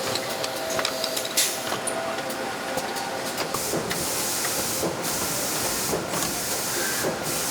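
Motor assembly-line machinery running, with scattered clicks and knocks, then from about halfway a run of one-second hissing bursts with short breaks between them.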